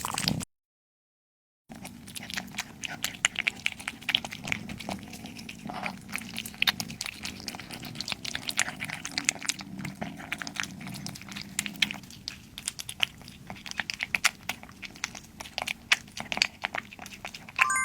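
A cat eating, with quick, irregular chewing and crunching clicks that go on steadily after a short silent break about half a second in.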